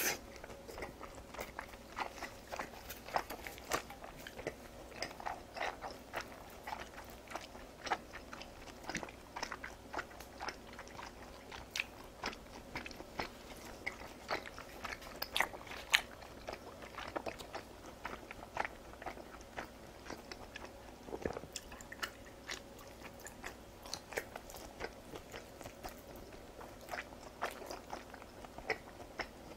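Close-miked chewing of raw beef sashimi, with many short, irregular wet mouth clicks and smacks.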